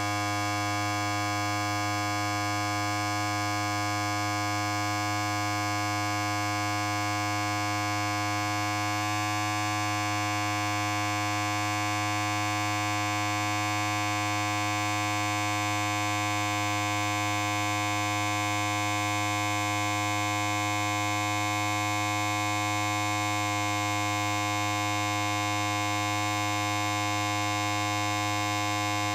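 Electric hair clipper running with a steady, even buzz: a strong low hum with many overtones above it.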